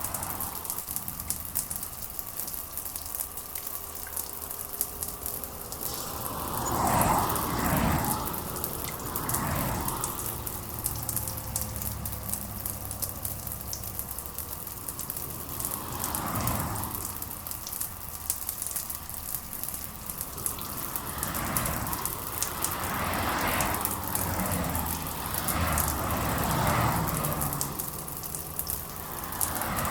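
Steady rain with a dense patter of drops. Louder rushing swells of a second or two come and go several times, the strongest about seven seconds in.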